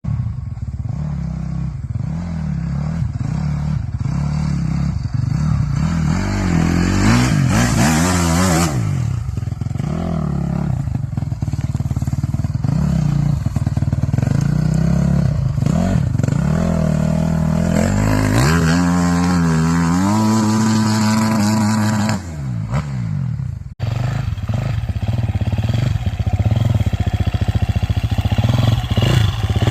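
Dirt bike engine revving up and down under changing throttle, its pitch climbing and falling over and over, held higher for a few seconds about two-thirds of the way in. The sound breaks off sharply and resumes about 24 seconds in.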